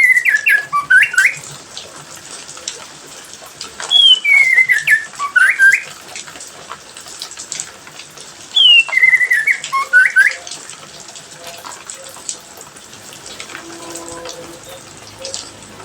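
A songbird sings three short whistled phrases a few seconds apart, each a falling whistle followed by quick upward notes, over a steady hiss of water spray.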